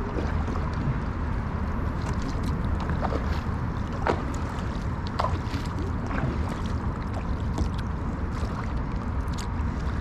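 Kayak paddling: a paddle dipping and water splashing and dripping at irregular moments over a steady low rumble.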